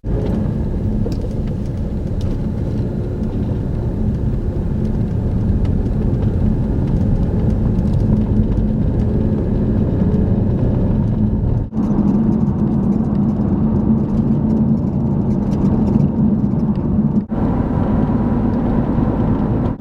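A car driving, heard from inside the cabin: steady engine and road noise. The sound drops out briefly twice, about twelve and seventeen seconds in.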